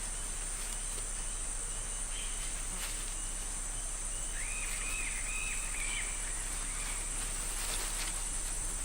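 Rainforest ambience: a steady high-pitched insect drone. About halfway through, a bird gives a short run of four or five arching chirps.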